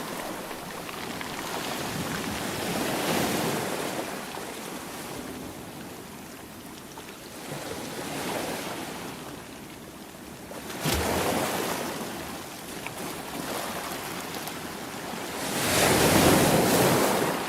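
Sea waves breaking and washing in, the sound swelling and ebbing several times. One wave comes in more sharply about two-thirds of the way through, and the loudest breaker comes near the end.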